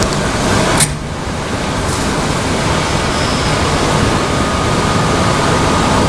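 Steady, loud machine noise, like a running fan or blower, with a sharp click just under a second in and a faint high steady tone coming in about four seconds in.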